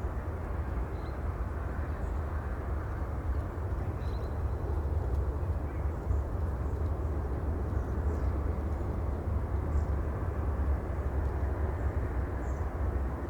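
Steady low rumbling noise with a soft wash of hiss above it, even throughout, with no distinct events.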